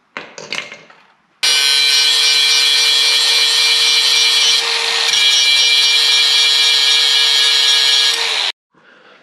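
Power tool running steadily as it cuts into wood for about seven seconds, starting and stopping abruptly, after a few knocks of handling at the start.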